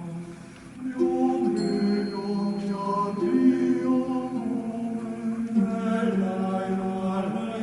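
A voice chanting a psalm in long held notes, to a melody reconstructed from the Masoretic cantillation accents (te'amim) of the Hebrew Bible. A high ringing tone is struck once about a second and a half in and rings on for a few seconds.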